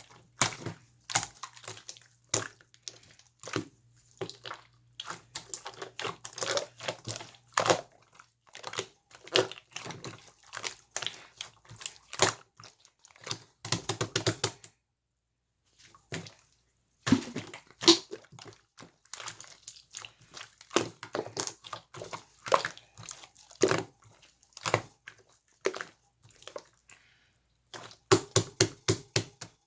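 A large slime being squeezed, stretched and poked by hand, giving short sticky clicks and pops at an uneven pace, with a pause in the middle and a quick run of clicks near the end.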